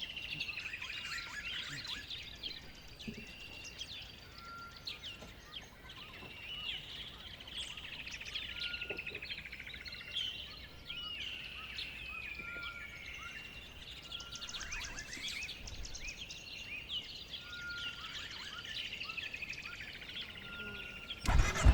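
Several birds singing outdoors: overlapping chirps, trills and whistled phrases, with one short clear note repeated every second or two. A loud low rumble cuts in suddenly at the very end.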